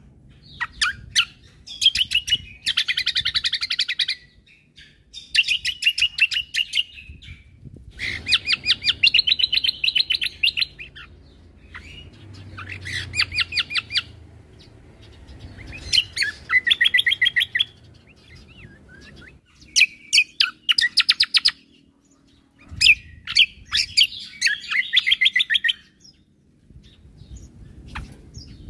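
Cucak kombo (kecial kombo) singing in rapid-fire phrases, the 'tembakan' style: about seven bursts of quick, sharp repeated notes, each a second or two long, with short pauses between them.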